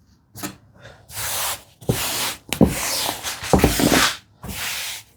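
Hands rubbing and smoothing fabric over freshly glued wooden tambour slats to press out air bubbles, a run of swishing strokes each about half a second to a second long, with a few soft knocks about halfway through.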